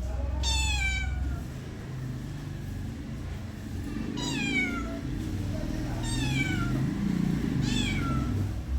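Domestic cat meowing four times, each meow a short call that falls in pitch, with a low rumble underneath.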